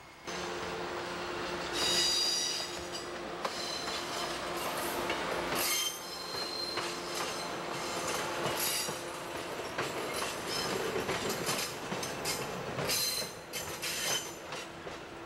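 Budd Rail Diesel Car rolling past, its wheels clicking over the rail joints under a steady diesel engine hum. Short high-pitched wheel squeals come about 2 seconds in, again around 6 to 7 seconds, and near the end.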